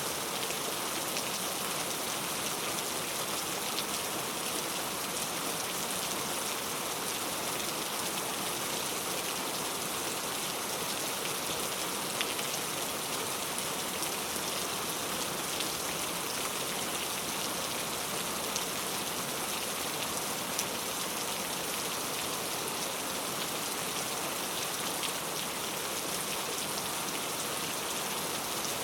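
Steady rain falling, a constant hiss with many faint scattered drop ticks.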